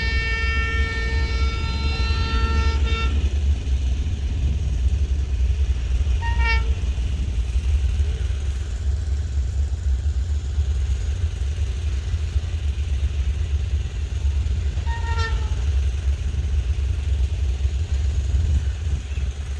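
Train horn sounding: a long blast that cuts off about three seconds in, then two short toots several seconds apart, each dipping slightly in pitch. A steady low rumble runs underneath.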